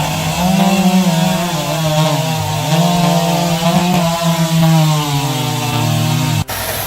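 Two-stroke chainsaw running at high revs and cutting wood, its engine note dipping under load and picking up again a few times. It cuts off abruptly near the end, giving way to a steadier engine-like noise.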